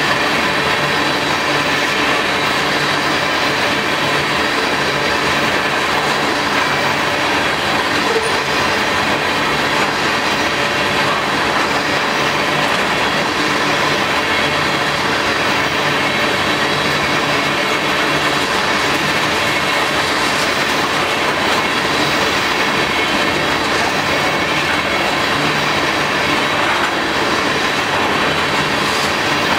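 CSX freight train of tank cars rolling past, a steady loud rumble of steel wheels on the rails with a thin high ringing held over it.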